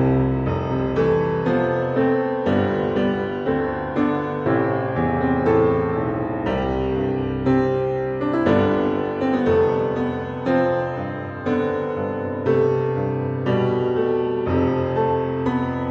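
Background music: solo piano playing a gentle melody, the notes striking about twice a second and ringing on.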